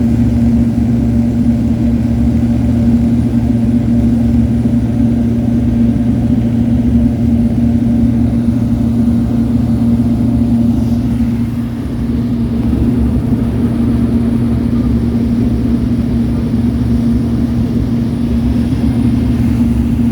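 Cabin noise inside a Cessna 208 Grand Caravan turboprop in flight: the engine and propeller's steady drone with a strong low hum, easing slightly for a moment about twelve seconds in.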